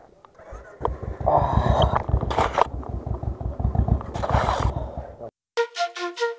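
Royal Enfield single-cylinder motorcycle engine catching about a second in and running with a steady row of low pulses, with two brief louder rushes of noise. It cuts off abruptly near the end, and background music with flute and strings and an even beat comes in.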